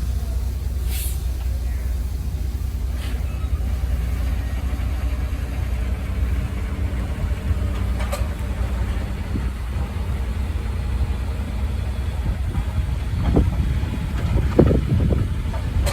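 Heavy earthmoving machinery running with a steady deep engine rumble. A few knocks and clanks come near the end.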